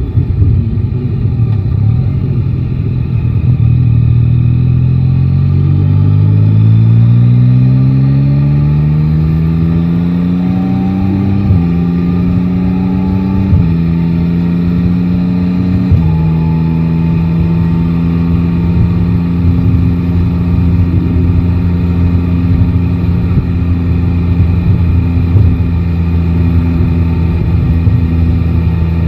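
Yamaha Tracer 9 GT's three-cylinder engine pulling away, its pitch rising steadily for several seconds, then stepping down through three quick upshifts before settling to a steady cruise, with road and wind noise underneath.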